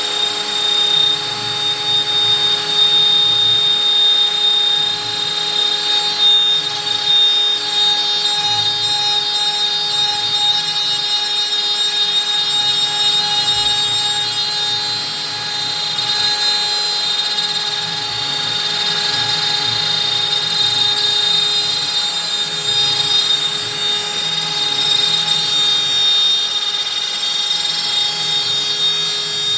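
CNC router spindle running at 25,000 rpm with a 4 mm up-down compression bit milling through beech: a steady whine over the noise of the cut, with small rises and dips in loudness as the bit moves along the path.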